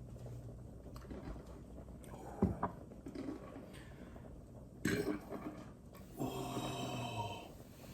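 A man chugging Guinness: a few gulps and gasps, then a drawn-out throaty burp about six seconds in.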